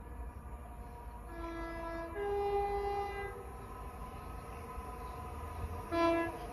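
Train horn sounding a two-note blast of about two seconds, lower note then higher, followed by a short single blast near the end, over a low rumble.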